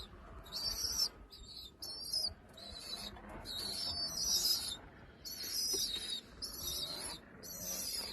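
Homing pigeon chicks (squeakers) giving a run of high-pitched squeaky calls, about ten short calls each under a second.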